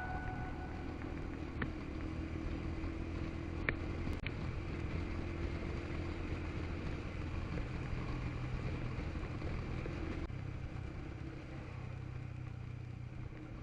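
Steady low drone of a moving vehicle's engine and road noise, with a few faint clicks in the first few seconds.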